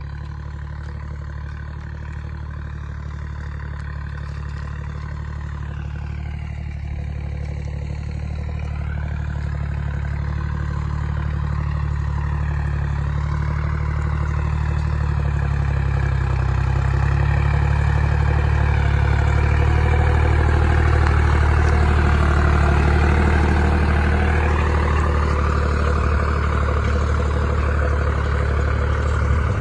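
Deutz-Fahr Agrolux 50 tractor's diesel engine running with a steady low hum, growing gradually louder over the first two-thirds, then easing off a little.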